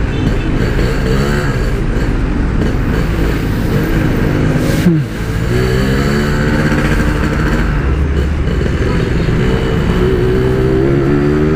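Yamaha RX-King's two-stroke single-cylinder engine heard from the bike while riding, its pitch climbing under throttle. About five seconds in the pitch drops sharply with a brief dip in loudness, then the engine climbs again. Low wind rumble on the microphone underneath.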